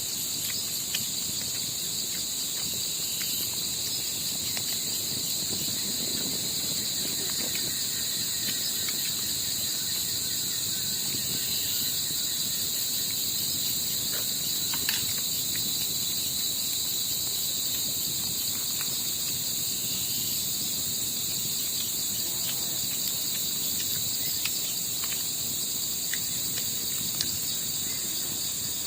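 Night chorus of crickets and other insects: a continuous high-pitched drone in several steady bands, with a few faint ticks.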